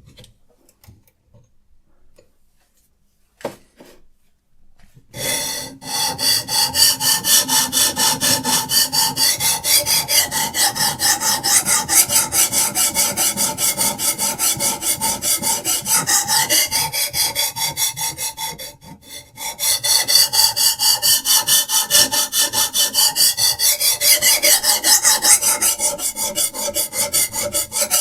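Diamond sharpening stone on a Hapstone RS guided knife sharpener rasping back and forth along a knife blade in quick, steady strokes. It starts about five seconds in after a few faint clicks and pauses briefly about two-thirds of the way through.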